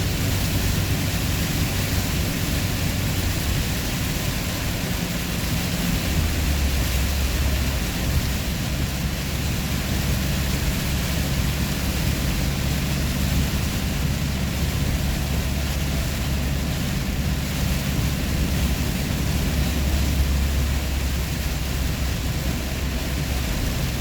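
Vehicle engine drone and road noise heard from inside the cab while driving; the engine's low hum drops in pitch about six seconds in, then holds steady.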